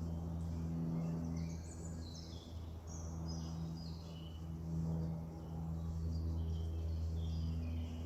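Songbirds singing in quick phrases of high notes that step downward, over a steady low hum.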